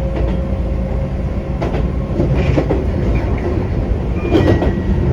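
Keihan electric train running, heard from inside the car: a steady low rumble with wheels clacking over rail joints a few times, the loudest clack near the end.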